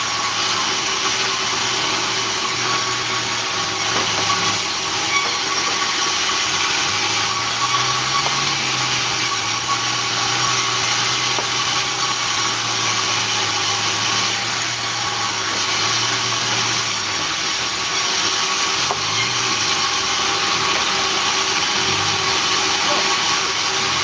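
Sawmill machinery running steadily under engine power, a wide mechanical hiss with fixed whining tones. A low engine hum rises a little about seven seconds in and drops back around seventeen seconds.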